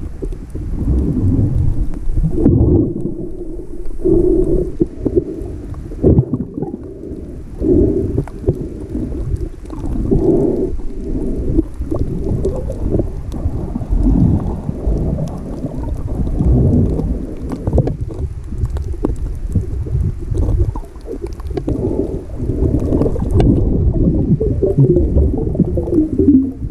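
Muffled underwater noise of a snorkeler swimming: low churning rumble of water moving around the submerged camera, swelling and fading unevenly.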